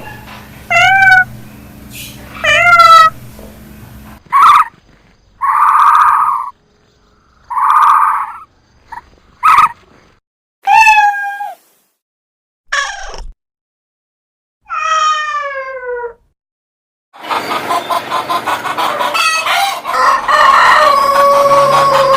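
A run of different farm animal calls, one clip after another. Goat bleats, which carry on from just before, come twice in the first three seconds. Then come separate calls with silent gaps between them. The last five seconds hold a dense stretch of many overlapping calls.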